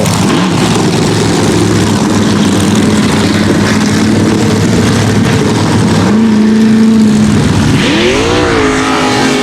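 Mega trucks' big engines running hard at high throughput during a race, a loud, dense engine noise; about six seconds in one engine's pitch rises and holds for over a second.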